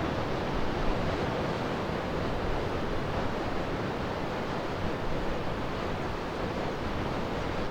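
Steady rushing noise of wind and surf, with a low rumble of wind on the microphone.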